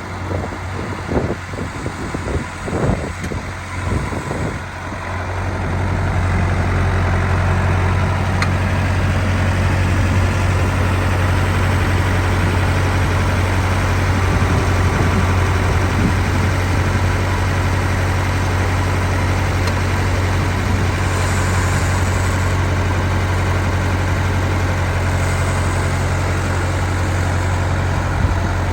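Massey Ferguson 165's four-cylinder diesel engine running: uneven for the first few seconds, then about five seconds in it settles into a louder, steady run.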